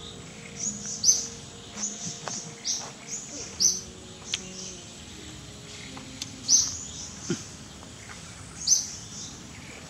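Birds chirping: short, high chirps, often in quick pairs, repeating every second or so, with a few faint clicks in between.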